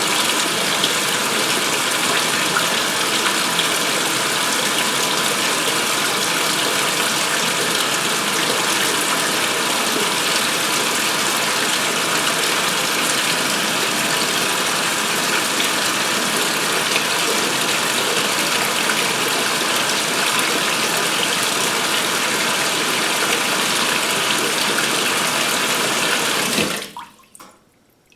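2016 Speed Queen top-load washer filling with water for the rinse: a steady rush of water pouring into the tub that cuts off suddenly near the end, as the fill is complete.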